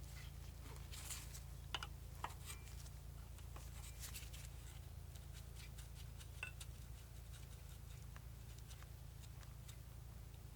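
Scattered light clicks, ticks and small scrapes of hand work on small parts, over a steady low hum.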